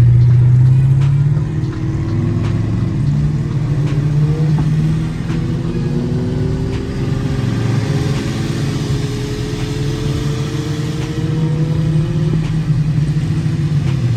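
Procharged Pontiac G8 GT's V8, heard from inside the cabin while cruising, with a steady low drone and a pitch that rises slowly twice as the car accelerates.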